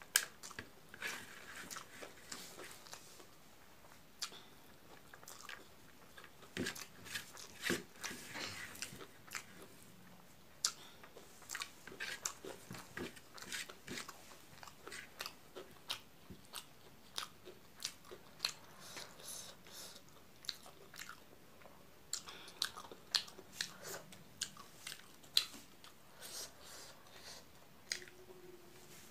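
A person eating rice and milk curry by hand, chewing close to the microphone: irregular wet mouth clicks, smacks and chewing sounds.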